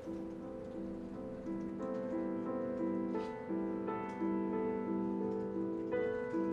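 Slow, gentle piano music, single held notes stepping along in an even pattern, growing a little fuller about one and a half seconds in.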